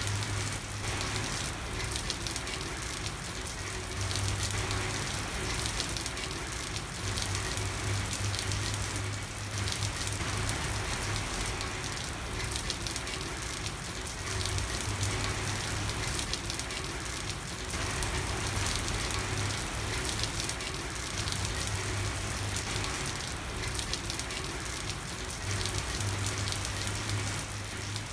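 Steady rain falling on a street, a dense even patter, with a low hum that swells and fades every few seconds.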